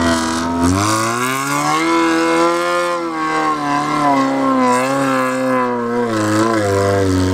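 A 4x4's engine revving hard under load in soft sand. The revs climb about a second in, then hold high, wavering up and down.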